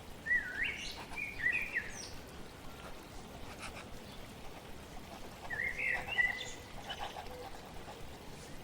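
A songbird sings two short warbling phrases, one near the start and one a little past the middle, over a steady hiss of flowing water.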